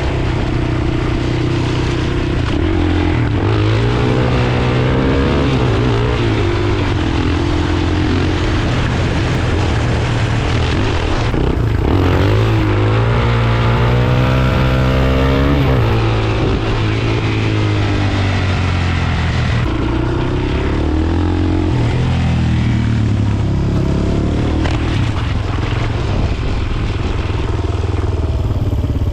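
Suzuki DR-Z400's single-cylinder four-stroke engine running under way, its pitch rising and falling several times as the bike accelerates and slows, over a steady rushing noise.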